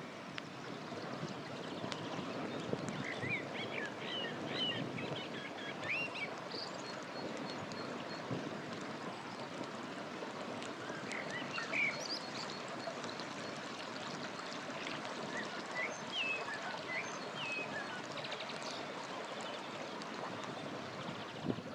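A river flowing steadily, with birds chirping in short bursts of calls now and then.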